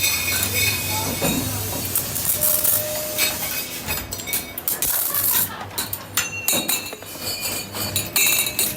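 Metal clinking and tapping in a workshop: sharp clinks come thick and fast in the second half, over a steady high-pitched machine whine and a low hum that fade after the first few seconds.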